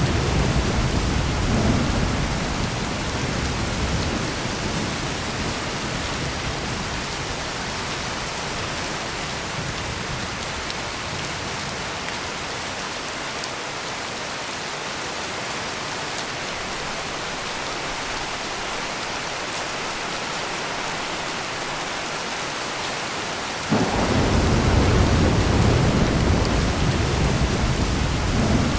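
Heavy rain pouring steadily, with thunder rumbling low at the start and dying away over the first few seconds. Near the end a new roll of thunder starts suddenly and rumbles on under the rain.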